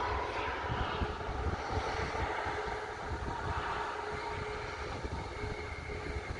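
Airliner engines running with a steady whine, slowly fading, under irregular wind rumble on the microphone.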